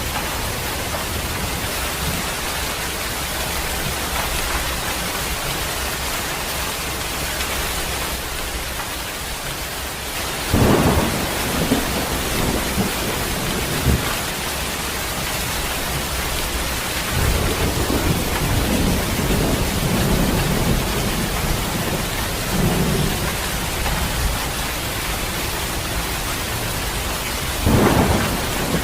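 Heavy rain falling steadily with thunder: a sharp clap about ten seconds in, a low rolling rumble in the middle, and another sharp clap near the end.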